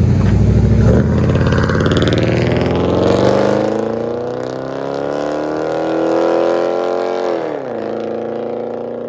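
2012 Jeep Grand Cherokee's 5.7L HEMI V8 through a dual exhaust with Flowmaster Outlaw mufflers and the mid muffler deleted, accelerating hard: a heavy low rumble, then the engine note rises steadily for several seconds before dropping sharply at an upshift and carrying on at a steady pitch.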